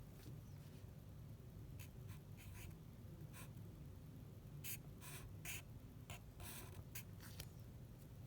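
Short scratching strokes of a drawing tool on paper: a few scattered ones, then a quicker run of strokes from about five to seven and a half seconds in, over a faint low steady hum.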